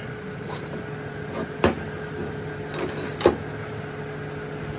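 A steady machine hum with a few sharp metallic knocks, the loudest about three seconds in.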